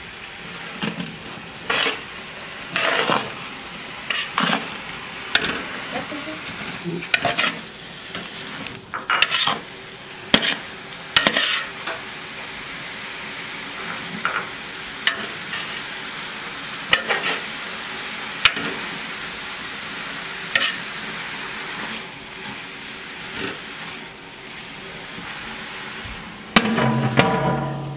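Chopped herbs and greens sizzling steadily as they fry in oil in a large aluminium pot, stirred with a metal slotted spoon that scrapes and knocks against the pot about once a second. Near the end the lid goes onto the pot with a brief metallic ring.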